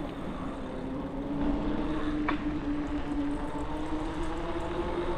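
E-bike electric motor whining steadily under pedal assist, its pitch rising slightly as the bike speeds up, over wind and tyre rumble. There is a single short click about two seconds in.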